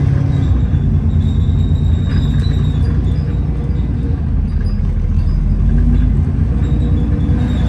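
Inside an Alexander Dennis Enviro400 double-decker bus on the move: a steady, loud low rumble from the engine and axles, with a droning tone that fades out about two seconds in and returns near the end.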